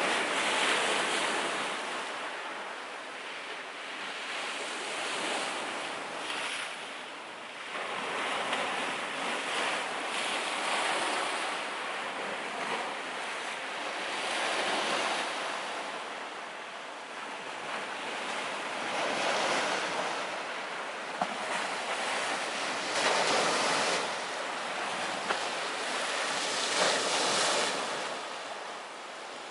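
Sea surf rushing and ebbing in repeated swells every few seconds, with a few sharp pops from a wood fire in the second half.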